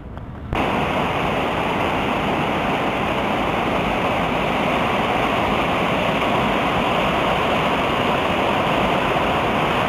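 Creek water rushing steadily over rapids and a small waterfall, a full, even rush that starts abruptly about half a second in.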